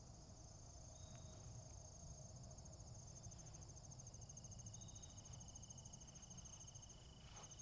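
Insects trilling faintly: a steady, high, fast-pulsed trill, with a second, thinner steady high tone joining about halfway through.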